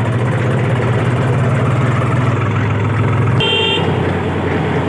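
Swaraj 735 tractor's three-cylinder diesel engine running with a steady low drone. About three and a half seconds in, the engine note drops and a short, high horn toot sounds.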